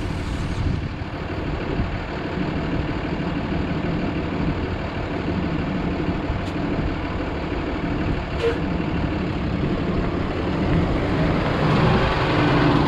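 2013 Ford F750 water truck's engine running steadily, getting a little louder near the end.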